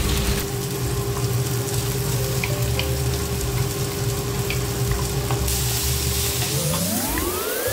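Pork frying and sizzling in a nonstick pan while it is stir-fried with a wooden spatula. A steady tone runs underneath, and near the end a pitched sound glides up and falls back.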